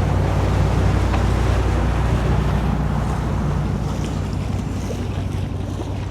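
A motor yacht's engine running steadily with a constant low hum, under a rush of water past the hull and wind buffeting the microphone.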